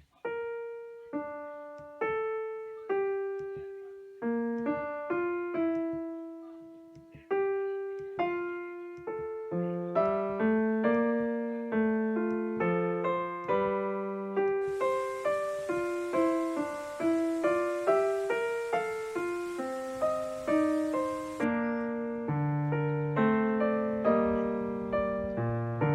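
Solo piano music. Single notes ring out and fade about a second apart, then the playing grows fuller and quicker, with lower notes, about ten seconds in. A faint steady hiss sits under it for several seconds in the middle.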